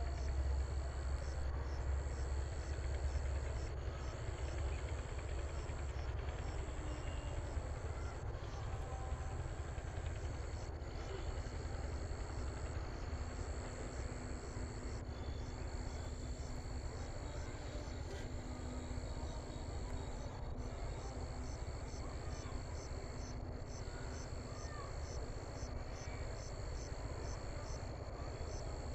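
Insects, crickets or the like, trilling steadily in a high, evenly pulsing chorus over a continuous low rumble.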